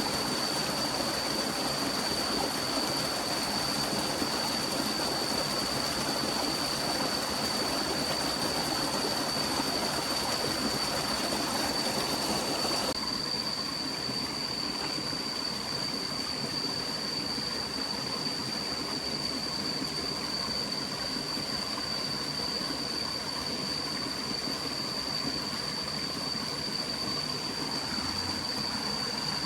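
Steady rush of stream water with a constant high-pitched whine over it. About halfway through, the hiss suddenly drops a little.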